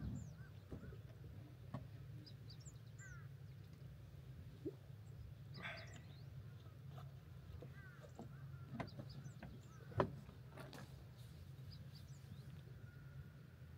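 Birds chirping in short scattered calls over a steady low rumble, with one sharp click about ten seconds in.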